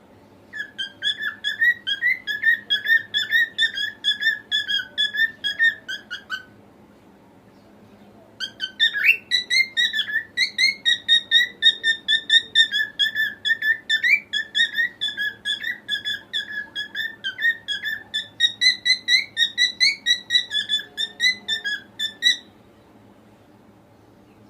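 Cockatiel singing: rapid runs of short whistled notes, about three a second, in two long bouts separated by a pause of about two seconds.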